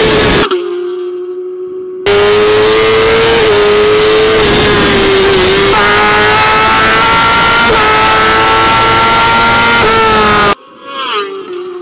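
Racing superbike engine running hard at high revs under full throttle, with wind rushing past, its pitch holding steady and then slowly climbing as the bike accelerates. Twice the sound drops abruptly to a much quieter level, about half a second in for a second and a half, and again near the end.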